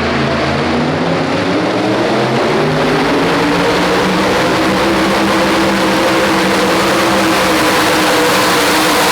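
A super modified two-wheel-drive pulling truck's engine at full throttle under load during a pull. It is a loud, steady note whose pitch climbs slowly throughout.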